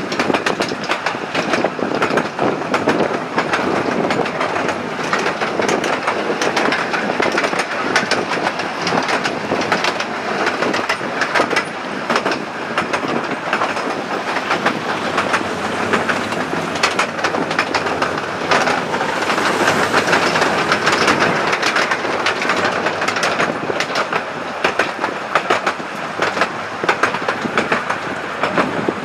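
Fairbourne Railway miniature train running, heard from a carriage: a steady rattle of wheels clicking and clattering over the track.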